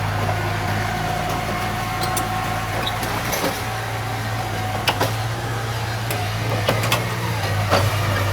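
Diesel engine of heavy earthmoving machinery running steadily, with a faint whine in the first half and several short metallic clanks from about the middle on.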